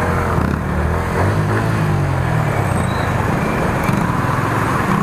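Motorcycle engine running while riding, its pitch rising as it accelerates about a second in, under steady wind and road noise.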